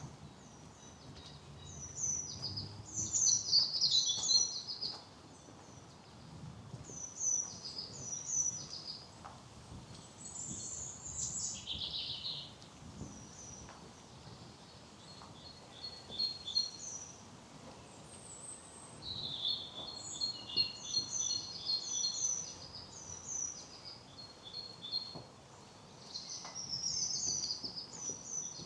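Several songbirds singing: short, high chirps and trills repeated in phrases and overlapping, with a louder burst about three seconds in and a falling phrase about twelve seconds in.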